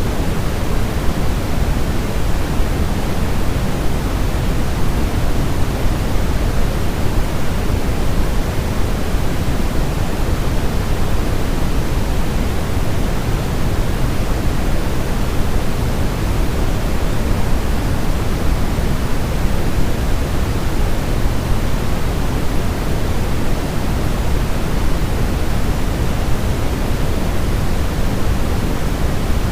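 Steady, unchanging electronic sleep noise of the white-noise kind: an even rushing hiss weighted toward the low end, deeper than a plain hiss.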